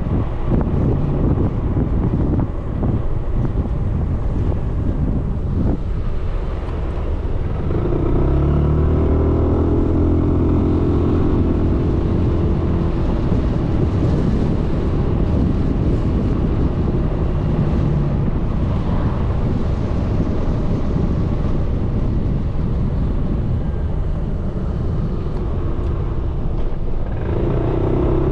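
Suzuki Burgman 400 scooter's single-cylinder engine running under way, mixed with wind rushing over the mounted camera's microphone. The engine note grows louder and climbs as the scooter accelerates about eight seconds in, and again near the end.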